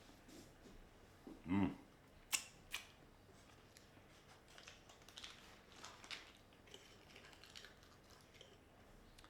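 A brief hummed vocal sound, then two sharp clicks and a run of small, light clicks and taps, like things being handled at a table.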